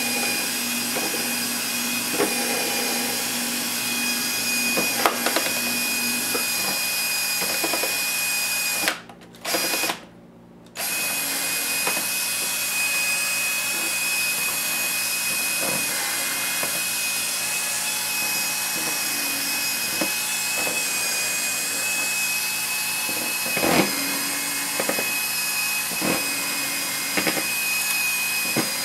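A steady whirring hiss with a thin high whine, like a small motor running, which drops out briefly twice about nine to eleven seconds in. Small clicks and taps of laptop parts and screws being handled sound over it, the loudest about two-thirds of the way through.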